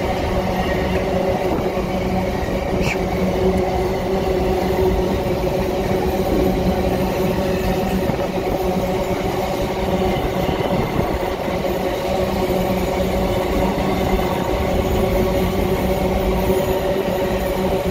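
Open-top steel gondola freight wagons rolling past close by: the steady noise of steel wheels running on the rails, with a constant low hum of several held tones.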